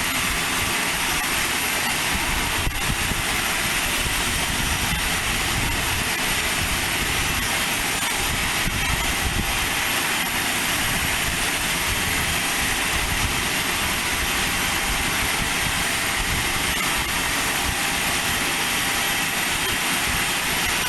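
Steady aircraft engine noise: a constant, unchanging hiss and hum.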